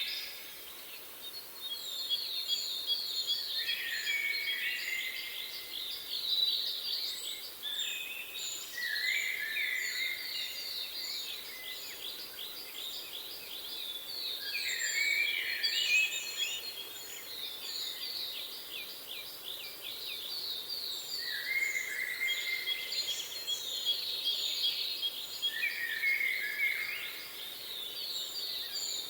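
Several songbirds singing together in overlapping rapid trills and chirps, with a thin high note repeated steadily through it.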